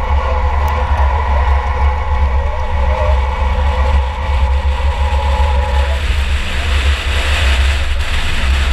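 2004 Chevy Impala derby car's engine running hard under race load, heard from inside the car as a loud, steady low rumble, its tone shifting about six seconds in.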